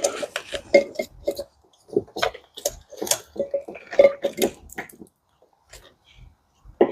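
Engine wiring harness being handled and routed over an LS intake: irregular plastic clicks and rustles for about five seconds, then quieter, with one sharp click near the end.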